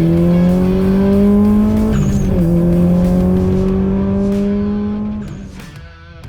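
Subaru STI's turbocharged flat-four engine pulling hard under acceleration. It shifts up about two seconds in, climbs in revs again, then backs off near the end.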